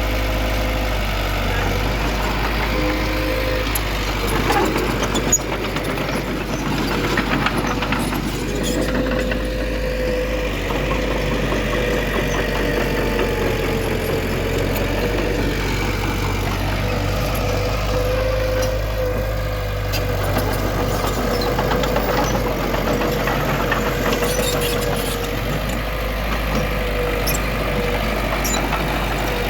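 Heavy earthmoving machinery running steadily, with a constant low diesel drone and a steady whine over it that wavers slightly in pitch; a single knock about five seconds in.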